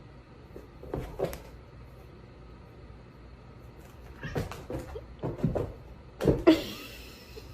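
Scattered knocks and clatter, then near the end a louder, short animal cry.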